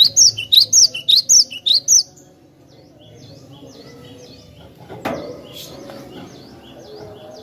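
Cinereous tit (glatik batu) singing: a fast run of about seven loud, sharp whistled notes over two seconds, then softer repeated chirps. A short knock about five seconds in.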